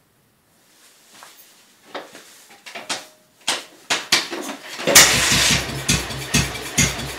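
BMW R25/3 single-cylinder four-stroke motorcycle engine on its first start after a rebuild: a few clicks and knocks, then about five seconds in it catches and runs with a regular pulsing beat.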